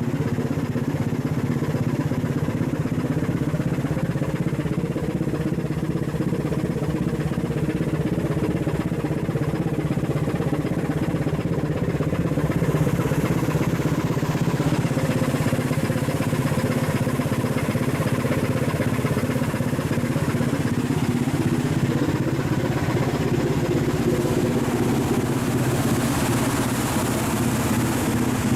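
Cargo ship's diesel engine running steadily on sea trial, a constant low drone.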